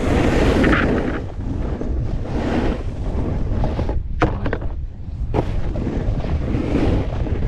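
Wind buffeting the microphone of a GoPro carried by a snowboarder, over the scraping hiss of the board sliding on snow, with a few sharp knocks between about four and five and a half seconds in.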